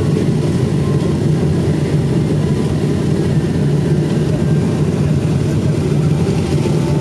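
Steady low rumble inside an airliner cabin, the engines running at low power as the plane rolls on the ground after landing.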